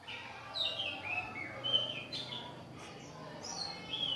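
Small caged birds chirping: a run of short, high chirps that glide downward, several each second.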